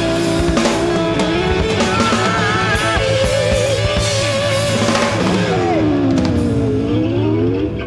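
Blues-rock band recording playing: a lead line of long, bending and wavering notes over bass and drums.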